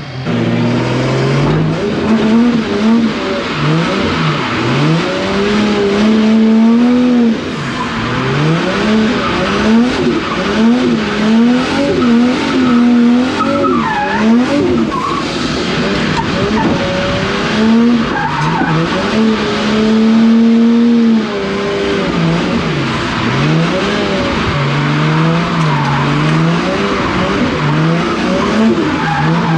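Nissan 180SX drift car's engine revving hard, its pitch rising and falling over and over as it is driven sideways, with tyre squeal, heard from inside the cabin.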